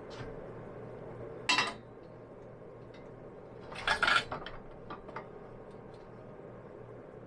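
Metal parts or tools clanking and clinking as they are handled: one sharp clank about a second and a half in, a louder cluster of clanks around the middle, then a few light ticks, over a faint steady hum.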